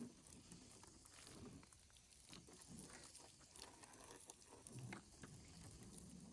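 Near silence, with faint scattered taps and rustling.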